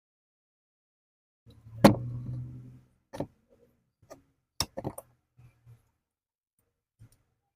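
A few separate sharp clicks and knocks of hard objects being handled. The loudest comes about two seconds in and is followed by a short low hum, with smaller clicks at about three, four and a half, five and seven seconds.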